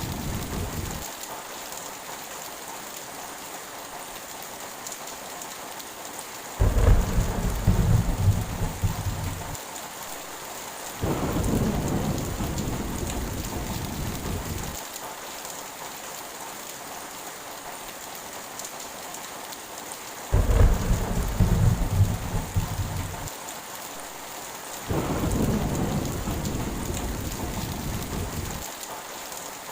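Heavy rain falling steadily, with thunder twice: a loud clap about 7 seconds in and again about 20 seconds in, each followed a moment later by a longer rolling rumble that fades out.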